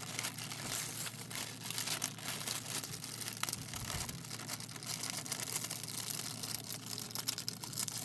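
Thin plastic cover sheet crinkling and crackling as it is peeled back and handled on a sticky diamond painting canvas. It comes as a steady run of small crackles with no pauses, the sheet clinging to the strong adhesive.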